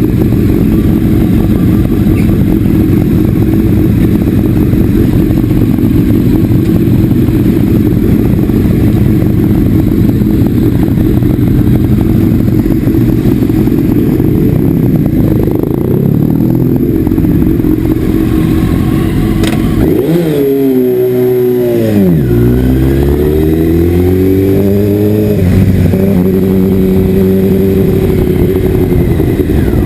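Motorcycle engine running while riding, steady for most of the time. About twenty seconds in the revs drop sharply, then climb again and fall back, as with slowing down and pulling away through a gear change.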